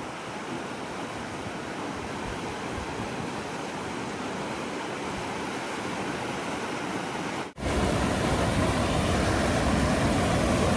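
Steady rush of a mountain stream or river. About two-thirds of the way through it cuts abruptly to a louder, fuller rush with more low rumble.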